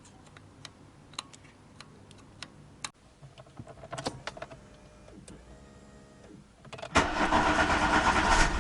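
A few light metallic clicks and taps, then about seven seconds in a car engine is cranked by its starter and fires up.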